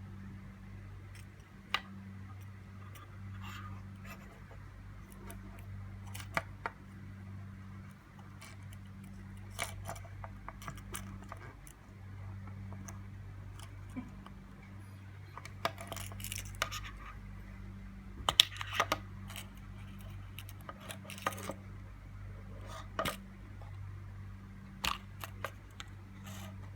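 Small clicks and taps of a car remote key fob's plastic case being handled and opened, scattered irregularly with the loudest cluster about 18 seconds in, over a steady low electrical hum.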